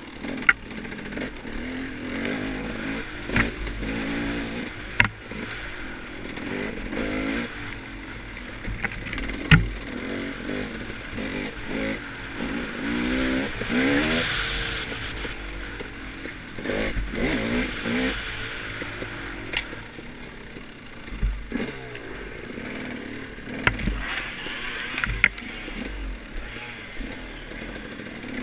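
Off-road dirt bike engine revving up and down over and over as it rides a rough woods trail. Sharp knocks and clatters come through at intervals, the loudest about ten seconds in.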